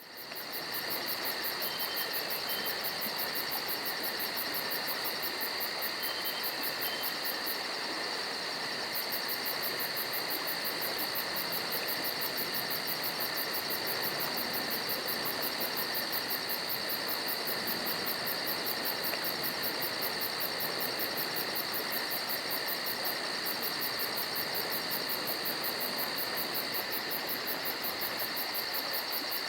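Crickets trilling: a steady, high-pitched chorus of rapid even pulses over a soft hiss, unbroken throughout.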